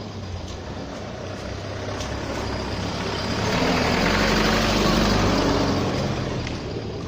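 A heavy motor vehicle driving past, its engine hum and road noise building to a peak about four to six seconds in, then easing off.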